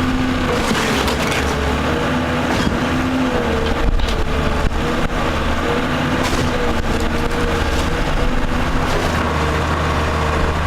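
A heavy demolition machine's engine running steadily under load, its pitch wavering, while it tears down a wooden house, with a few sharp cracks of breaking timber about four and five seconds in.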